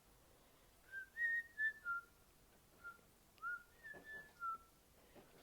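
A short whistled tune of about nine clear notes, rising and falling in pitch, over a few seconds.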